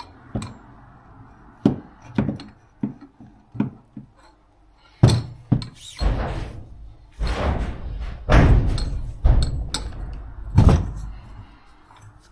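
Motorcycle fork parts knocking together as a part is worked into the fork leg: a run of light metallic taps, then from about five seconds in a series of heavier thuds.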